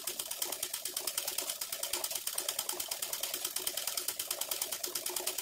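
Ordinary sewing machine stitching steadily, a rapid even clatter of the needle mechanism, as it sews free-motion running stitches to fill in an embroidered design.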